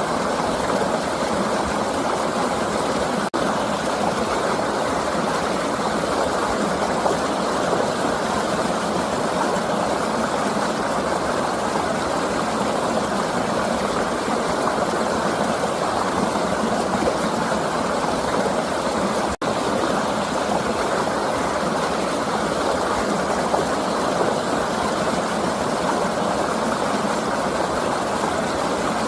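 River water flowing and rushing, a steady, even rush that cuts out for an instant twice.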